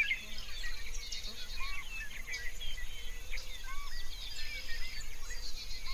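A chorus of small birds chirping, many short overlapping chirps with a lower arched call repeating every second or two.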